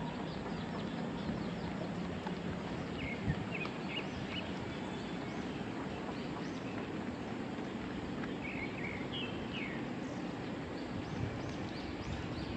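Steady rain falling, an even hiss. Short bird calls break through twice, about three seconds in and again around nine seconds.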